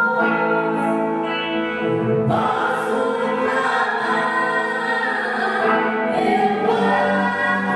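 Gospel worship song: voices singing together over instrumental accompaniment, held notes with a new phrase starting about two seconds in.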